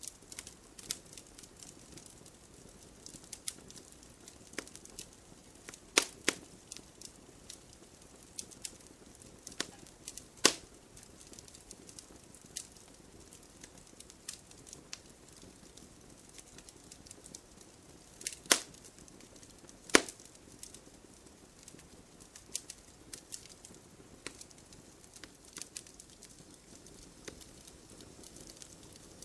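Wood fire burning with a steady low hiss and frequent sharp crackles, with a few louder pops and snaps from the burning wood, about 6, 10, 18 and 20 seconds in.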